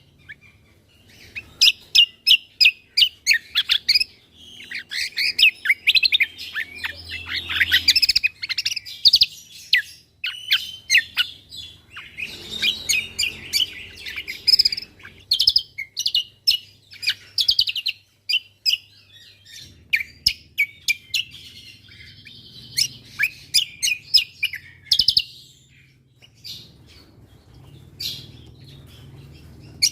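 Cucak kombo (kecial kombo) songbird singing in rapid chattering phrases of quick chirps, trills and sharp notes, with short pauses between bursts. The singing thins out in the last third.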